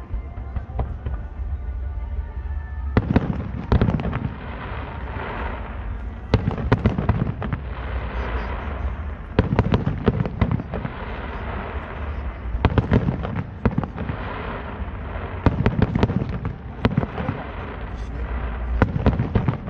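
Aerial firework shells bursting overhead: sharp booms that come in clusters every two to three seconds, with a rumbling haze between them.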